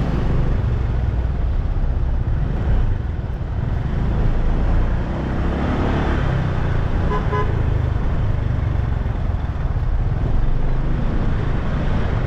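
Steady wind and road rumble of a motorbike riding through city traffic, with a few short horn beeps about seven seconds in.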